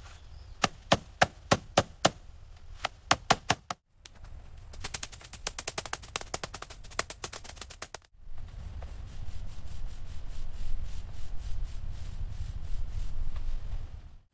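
Bamboo building work in three short cuts: a run of sharp knocks about three a second, then fast even ticking, then quick rasping strokes over a low rumble.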